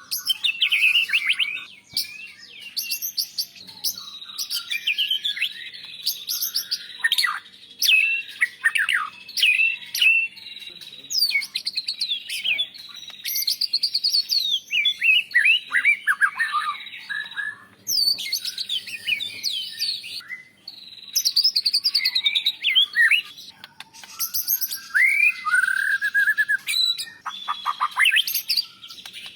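A White-rumped Shama singing a rich, varied song: rapid whistles, trills and chirps, many sweeping quickly up and down in pitch, delivered in dense phrases with only short breaks.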